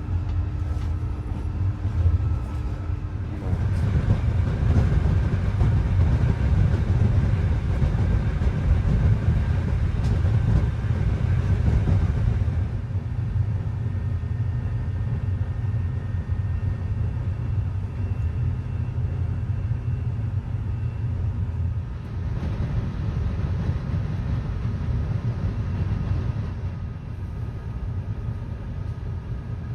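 Passenger train running along the line: a steady low rumble of the wheels and carriage, with the sound changing slightly a couple of times.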